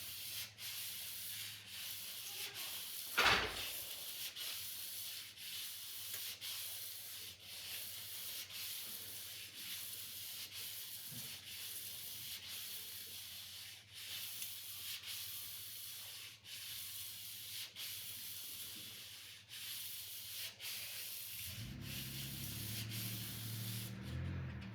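Sword blade being sharpened: a steady run of high-pitched scraping strokes, about one and a half a second. A single sharp knock about three seconds in.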